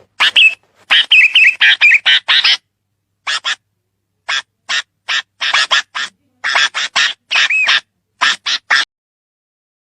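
A bird giving a rapid series of short, harsh calls in clusters, with brief gaps between groups.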